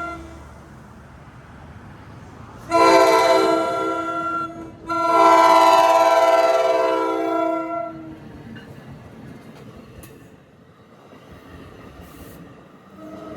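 NJ Transit ALP-46A electric locomotive's horn blowing its crossing warning: a blast of about two seconds, then a longer one of about three seconds, several notes sounding together. After that comes the quieter rumble of the train rolling by, with a few sharp wheel clicks, and the horn starts again just at the end.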